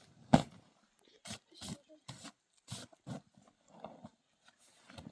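An irregular series of short thumps, roughly two a second, with one much louder thump about a third of a second in.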